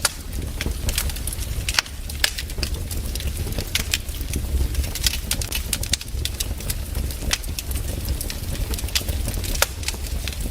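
Wood fire crackling, with sharp irregular pops several times a second over a steady low rumble.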